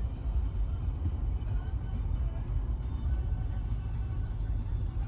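A car's low, steady rumble, with music playing faintly over it.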